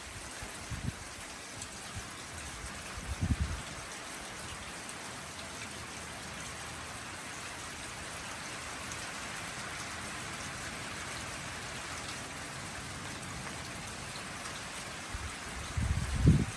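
Steady rain falling, an even hiss throughout. Brief low thumps break in about three seconds in and again near the end.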